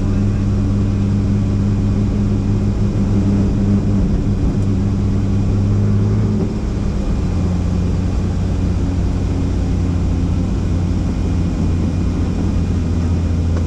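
Helicopter running with a steady, loud mechanical drone. Its low tone drops slightly in pitch about six and a half seconds in.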